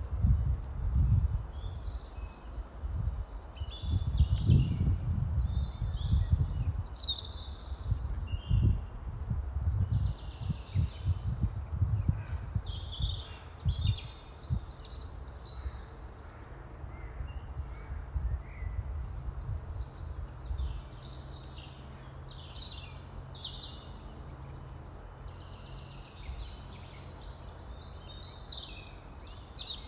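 Several birds chirping and calling throughout, over uneven low rumbling in the first half that settles into a steady low hum about halfway through.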